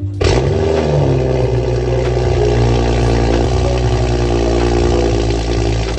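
BMW F10 5 Series engine starting up: it flares up in revs for about a second as it catches, then settles into a steady idle.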